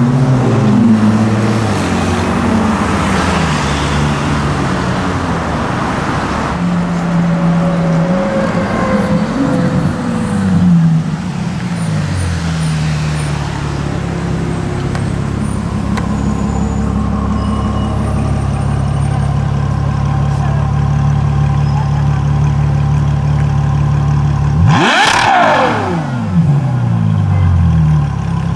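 Ferrari 812's V12 engine at low speed in traffic: its pitch rises and falls a few times, then holds a steady low drone, with a quick rise and fall again about twenty-five seconds in.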